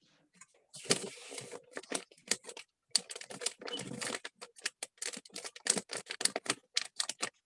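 Rapid small rustles, crinkles and taps from a gift box, ribbon and wrapping being handled, with a couple of longer rustling stretches.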